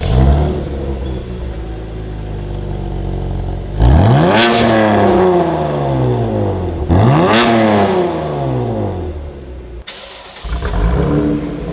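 2016 Chevrolet Camaro RS's 3.6-litre V6 running through a newly fitted Borla ATAK cat-back exhaust, blipped twice, each rev rising sharply and falling back slowly to idle. Near the end the sound briefly drops away, then the engine is heard again.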